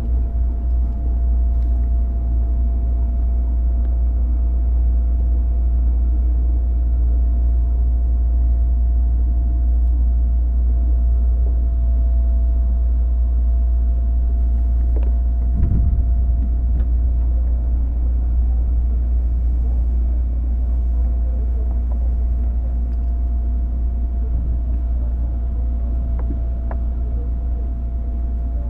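JR East 205 series electric train motor car with MT61 external-fan traction motors running at a steady speed: a heavy low rumble with a steady tone over it. There is a brief knock about halfway through.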